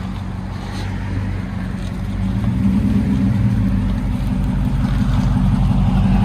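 2010 Dodge Ram 1500's 5.7L HEMI V8 running at about idle through a Black Widow Race Venom muffler and dual exhaust, a deep, steady exhaust rumble that lifts slightly in pitch and level a couple of seconds in.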